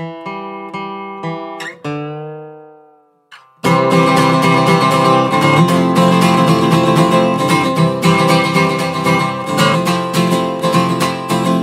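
Acoustic guitar music: a few single plucked notes ring out and die away, a moment's pause, then full strummed acoustic guitar comes in about three and a half seconds in and carries on.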